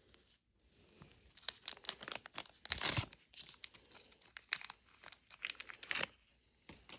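Crinkling, tearing wrapping of a Mini Brands toy capsule being pulled open by hand: a run of crackles and rustles, loudest about three seconds in.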